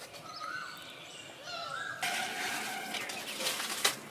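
Birds chirping and singing in short whistled phrases that glide up and down. About two seconds in, a louder rustling hiss with a few sharp clicks starts.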